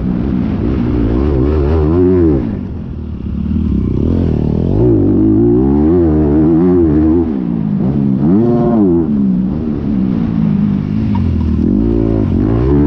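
Honda 250 four-stroke motocross bike's single-cylinder engine revving hard and dropping back again and again as it is ridden round the track. The throttle comes off for a moment about three seconds in, then the engine pulls up through the revs several more times.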